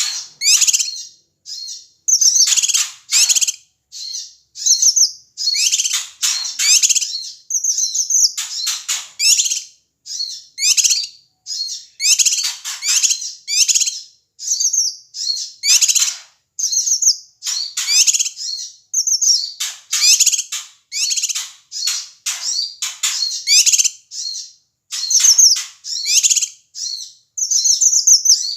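Cucak kinoi calling noisily: short, rapid phrases of sharp high chattering notes, repeated about once a second.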